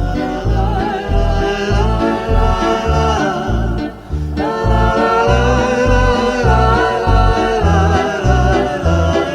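Romani folk song music: a wordless wavering melody with vibrato over a steady plucked bass-and-chord accompaniment, about two beats a second. The melody breaks off briefly about four seconds in.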